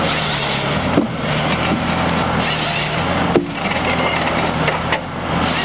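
Wood-processing machine running: a steady engine drone under the noise of logs being cut and split, with sharp wood cracks about a second in, about three and a half seconds in and near the end.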